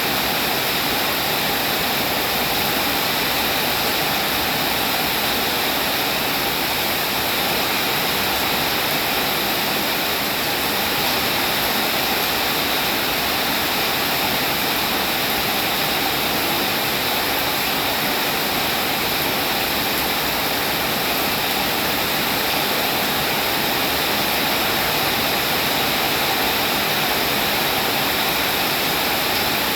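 Steady rain falling, a dense even hiss without separate drops or changes in level.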